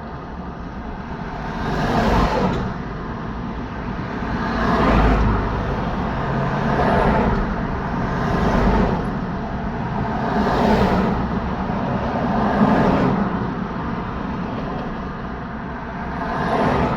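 Road traffic: vehicles driving past one after another, about seven passes in turn, each swelling up and fading away over steady road noise, one with a deeper rumble.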